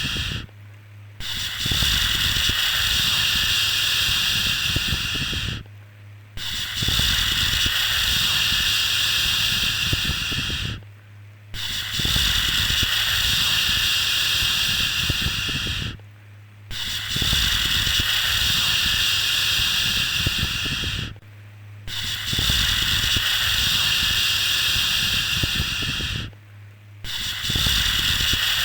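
A long shushing "shhh" for soothing a baby, repeated over and over: each shush lasts about four and a half seconds, then a pause of under a second, about every five seconds.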